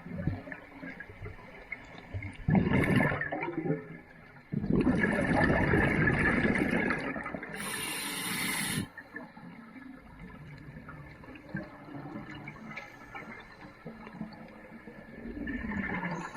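Scuba diver breathing through a regulator underwater: exhaled air bubbles out in rushing bursts. There is a short burst about two and a half seconds in, a long one of about four seconds near the middle that ends in a sharp high hiss, and a weaker burst near the end.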